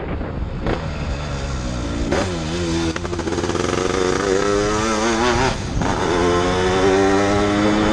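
Yamaha RD135 two-stroke single-cylinder motorcycle engine pulling under acceleration, heard from the rider's seat with wind on the microphone. Its pitch climbs, drops about two seconds in and again near six seconds, then climbs again, as with gear changes.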